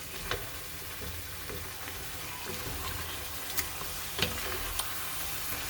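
Chicken and vegetables in tomato sauce cooking in a pan: a steady sizzling hiss, with a few sharp clicks scattered through it.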